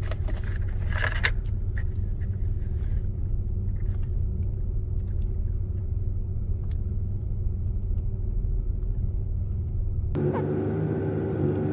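Clicks and rustles of wiring-harness connectors and the radio being handled in the first few seconds. Under them runs a steady low rumble with a faint hum.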